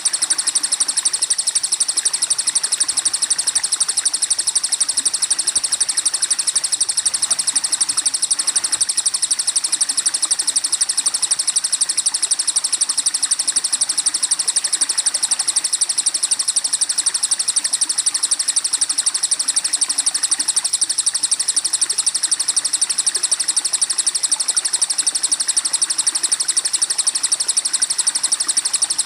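Songbird masteran recording: a continuous, very rapid high-pitched chirping trill that runs evenly without a break, over a fainter steady hiss.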